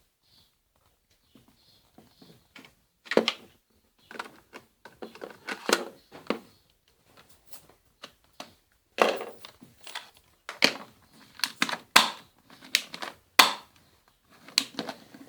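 Irregular series of sharp clicks and knocks from an airsoft Beretta M9 pistol, about nine loud ones with quieter handling rustle between them.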